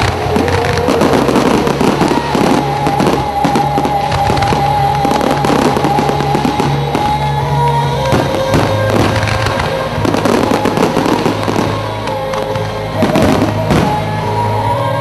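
Fireworks display: many bangs and crackling bursts in quick, irregular succession over a steady music soundtrack.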